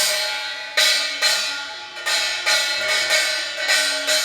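Korean pungmul percussion playing a short interlude between lines of a chanted blessing song: about eight sharp, bright strikes that ring on, in an uneven rhythm.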